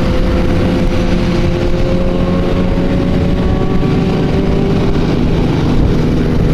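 Motorcycle engine running at steady revs during a ride, its pitch creeping up slightly, over a dense low rushing noise.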